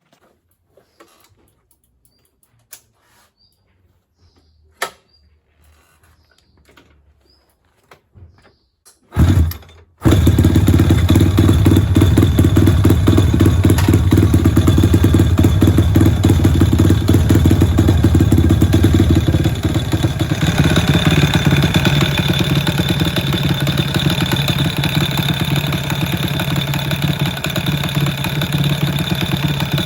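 Small four-stroke single-cylinder 4mini motorcycle engine, fitted with a dry clutch and 5-speed transmission, being started: a few light clicks and knocks, a brief turn-over just after nine seconds, then the engine catches about ten seconds in and keeps running steadily, its tone changing slightly around twenty seconds.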